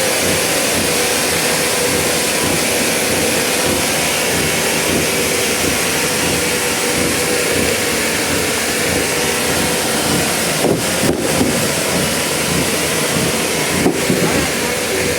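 Sawmill machinery running steadily: a loud, even mechanical drone with a steady whine through it, dipping briefly a few times near the end.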